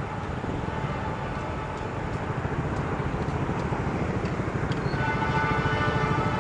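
Diesel-electric locomotive hauling a passenger train approaching on a straight double track, its engine rumble steadily growing louder. A steady chord-like tone strengthens about five seconds in.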